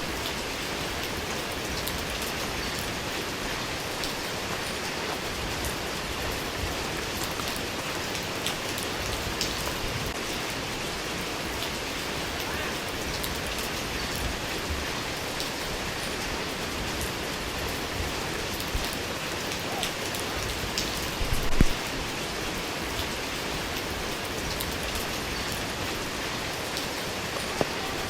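Steady rain falling, an even hiss of drops on surfaces with scattered individual drip ticks. A brief cluster of louder taps stands out about three quarters of the way through.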